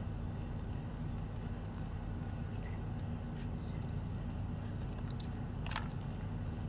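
White gym chalk crunching, with scattered faint crackles and one louder crunch near the end, over a steady low hum.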